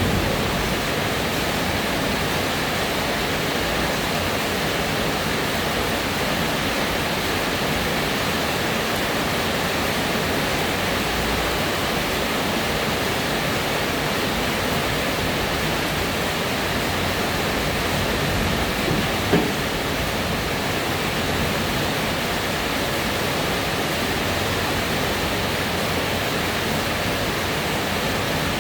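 Steady rain falling, an even hiss that does not let up. About two-thirds of the way through there is a single brief knock.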